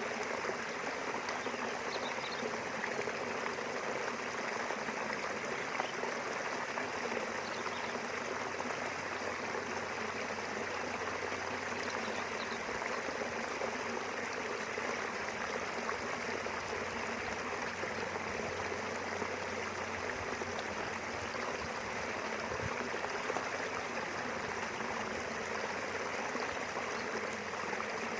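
Small river flowing steadily, an even rush of running water with no breaks.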